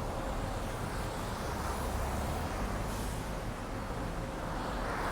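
Steady road traffic noise with a low rumble, under a faint steady hum.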